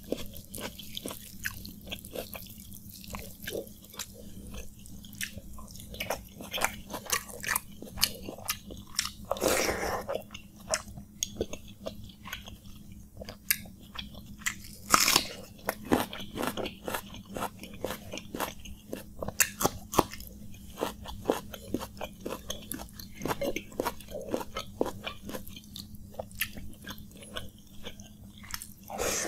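Close-up eating sounds: crunchy bites into raw onion and chewing of watery fermented rice, a run of many short sharp crunches and clicks, with two louder bites about ten and fifteen seconds in.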